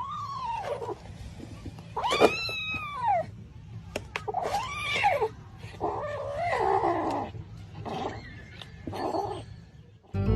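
A cat yowling: a series of drawn-out meows, each rising and then falling in pitch.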